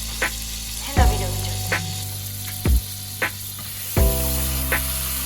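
Background music with a slow, steady beat, over the steady hiss of food sizzling in a frying pan.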